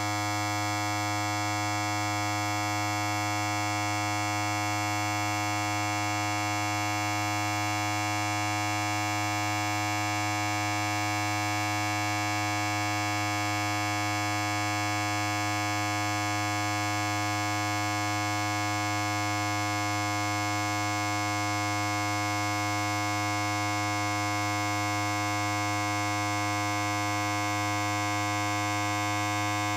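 Electric hair clipper running with a steady, unchanging buzz.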